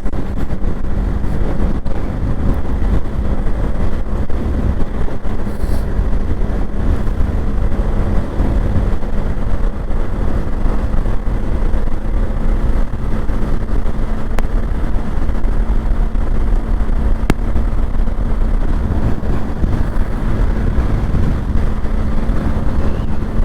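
Motorcycle ridden at a steady speed: a steady engine hum under a constant low rush of wind on the microphone.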